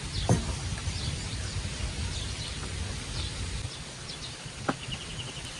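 Steady hiss of rain with scattered bird chirps over it; a low rumble drops away about two-thirds of the way through, and a rapid chirping trill comes near the end.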